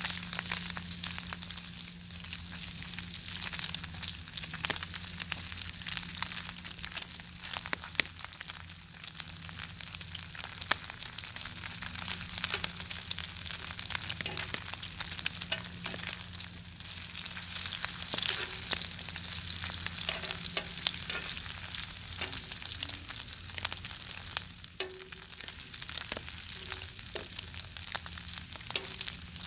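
Bacon sizzling and spattering over a crackling fire: a steady dense hiss full of small pops. A faint steady low hum runs underneath.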